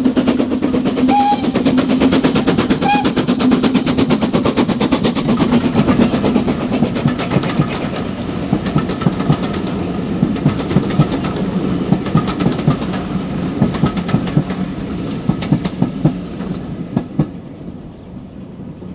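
Steam-hauled train passing: a rapid clatter of wheels over the rail joints over a steady low drone, fading away over the last few seconds.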